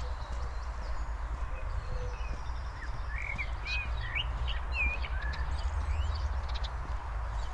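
Small forest birds chirping: a quick run of short, high chirps about three to five seconds in, with a few scattered calls around them, over a steady low rumble.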